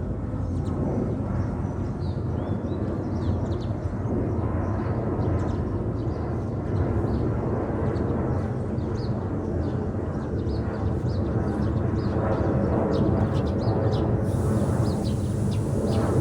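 Steady distant rumble of an Airbus A330 jet airliner passing high overhead, with many small birds chirping.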